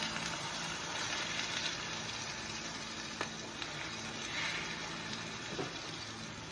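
Shredded cabbage and egg mixture sizzling as it goes into hot olive oil in a frying pan: a steady hiss, easing slightly, with a few faint clicks.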